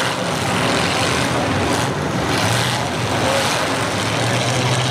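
Engines of several demolition derby cars running together in a steady, loud din.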